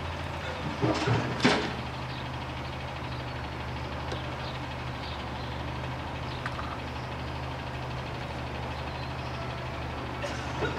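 OS .46AX two-stroke glow (nitro) model airplane engine idling steadily, with a couple of brief rushing noises about a second in.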